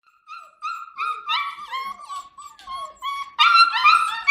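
Standard poodle puppies, six to seven weeks old, whining and yipping in a run of short, high-pitched calls, a few a second. The calls overlap and get louder about three and a half seconds in.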